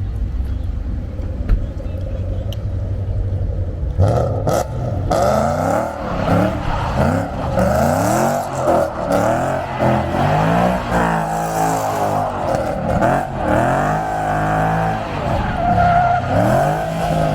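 A car engine running low and steady, then from about four seconds in revving up and down again and again, with tires squealing.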